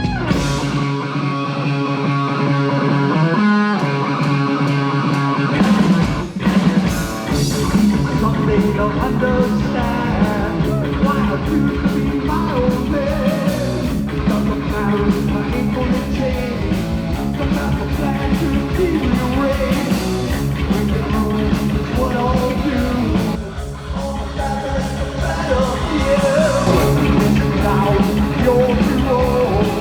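Live heavy metal band playing: electric guitar alone at first, then drums and bass come in about six seconds in and the full band plays on.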